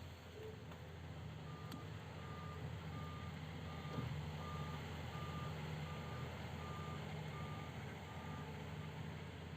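Excavator travel alarm beeping at a steady pace, just under two beeps a second, starting about a second and a half in and stopping near the end, over the low rumble of the diesel engine.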